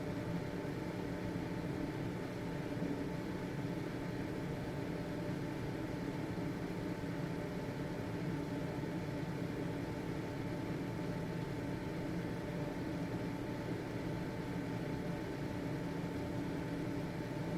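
A household exhaust ventilation fan running steadily: an even whir of moving air with a steady motor hum of several held tones.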